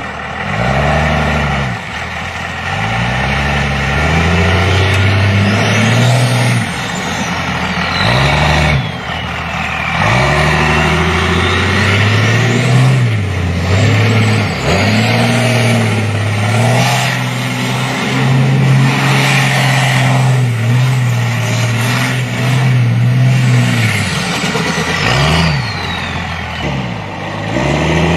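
Chevy twin-turbo engine revving hard again and again, its pitch climbing and dropping, with a high turbo whistle that sweeps up and falls away several times.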